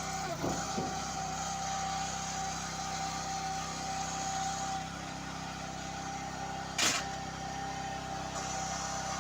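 Engine of a hydraulic firewood machine running steadily with a held whine, with a few knocks about half a second in and one sharp loud crack about seven seconds in.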